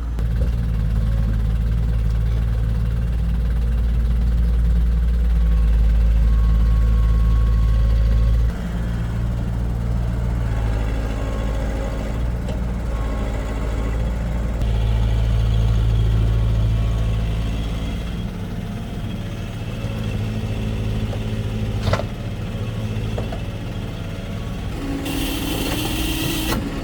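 Heavy diesel engine running under varying load. It drops sharply about a third of the way in and swells again past the middle. Near the end a sharp click is followed by a short burst of hissing air.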